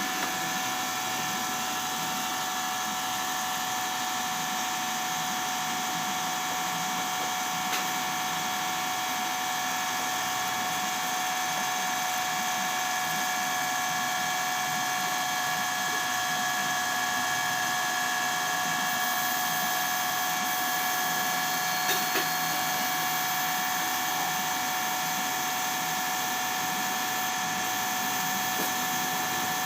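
A power tool running steadily with a constant whine, never stopping or changing speed, with a couple of faint knocks about 8 and 22 seconds in.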